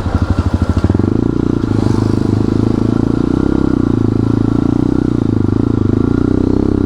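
Motorcycle engine ticking over with slow, distinct beats, then pulling away about a second in and running steadily at higher revs.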